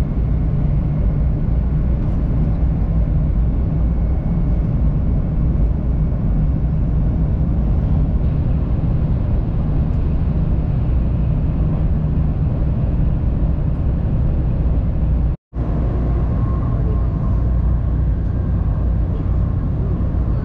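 Steady low rumble and rush of a JR West 500 series Shinkansen running at speed, heard from inside the car. The sound cuts out for a moment about fifteen seconds in.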